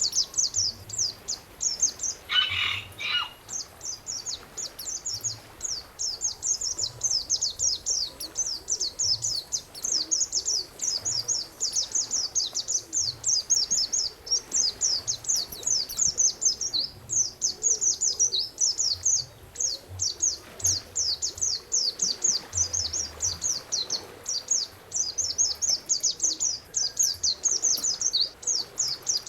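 Songbird recording used as a masteran: a continuous stream of rapid, high-pitched chirping notes, with a brief lower call about two to three seconds in.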